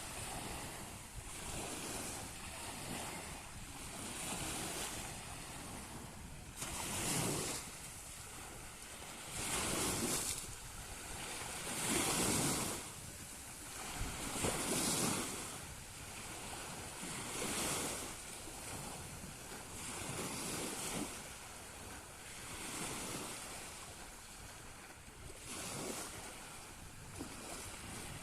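Small Black Sea waves washing onto the shore, one swell of surf every two to three seconds, with some wind noise on the microphone.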